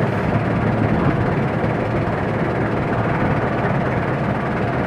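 Small boat's engine running steadily, a continuous even rumble with no change in speed.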